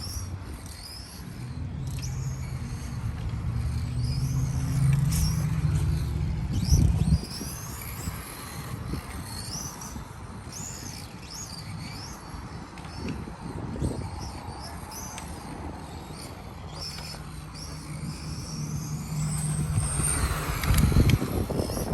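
Electric 1/10 touring RC cars' motors whining, their high pitch sweeping up and down again and again as they accelerate and brake around the track. A low hum comes and goes twice, with a couple of thumps.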